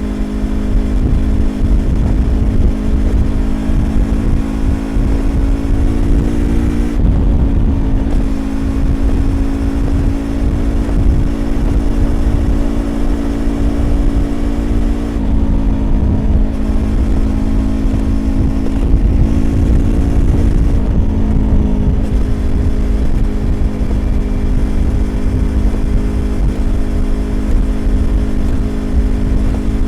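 Yamaha YZF-R25's parallel-twin engine through a Prunus aftermarket exhaust, running at steady cruising revs. Its pitch steps down three times, then holds. A heavy wind and road rumble lies underneath.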